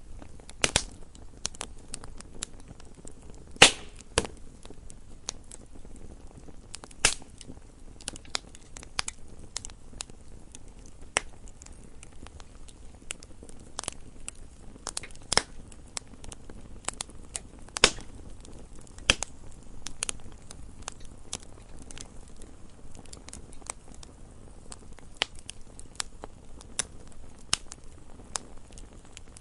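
Wood fire burning in a fireplace: irregular crackling and sharp pops of burning logs over a low steady hiss, with a few louder pops standing out.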